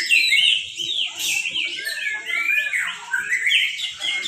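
Many caged white-rumped shamas singing at once: a dense, overlapping chorus of fast chirps, trills and whistles with no break.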